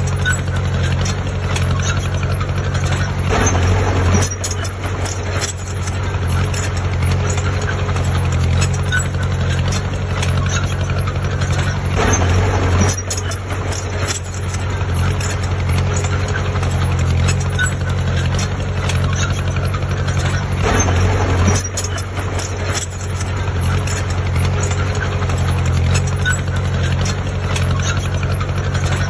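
Heavy diesel machinery engine running steadily, surging louder three times about nine seconds apart.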